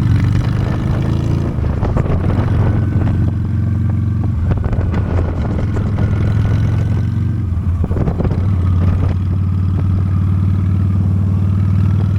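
Honda Steed V-twin motorcycle engine running steadily under way, a low, even drone.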